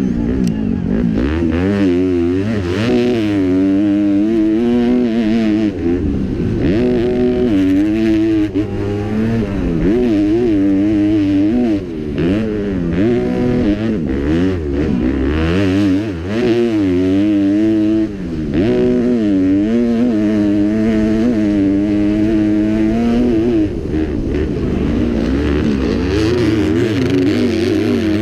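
Kawasaki four-stroke motocross bike engine at race pace, revving up and falling back over and over as the rider works the throttle through the track. There are short drops in engine noise a few times around the middle, and it is heard close up from a camera mounted on the bike.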